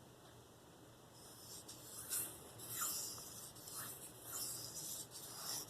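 Steel blade of a Spyderco Endura 4 (K390) drawn in repeated strokes across a Venev diamond sharpening stone: a run of scraping hisses that starts about a second in, each stroke lasting well under a second.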